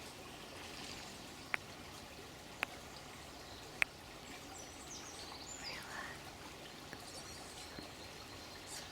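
Water running steadily like a small stream, with three sharp ticks about a second apart early on and faint bird chirps a little past the middle.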